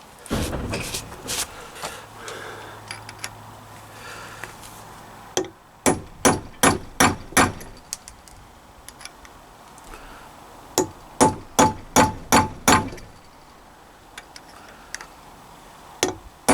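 A hammer striking metal on a Triumph T140 crankshaft, in two runs of about seven quick, sharp blows at roughly three a second, with some handling clatter before them. The blows lock the freshly seated sludge trap plug in place so it cannot work its way out.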